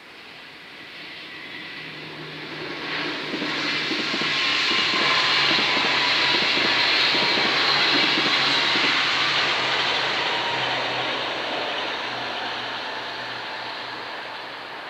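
NS ICMm intercity electric multiple unit passing at speed over a level crossing. A rush of wheels on rail swells over a few seconds and peaks with a rapid clatter of wheel clacks mid-pass, then fades slowly as the train moves away.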